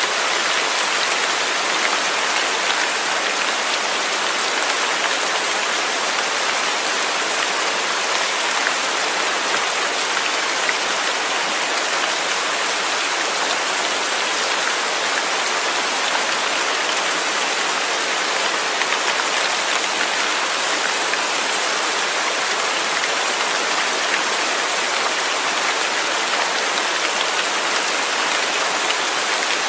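Steady rain falling, an even hiss of many drops with fine pattering ticks, unchanging throughout.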